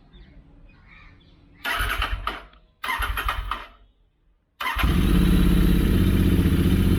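Royal Enfield Interceptor 650's parallel-twin engine being started through aftermarket stainless slip-on silencers: two short spells of cranking of about a second each, then it catches about four and a half seconds in and runs steadily and loudly.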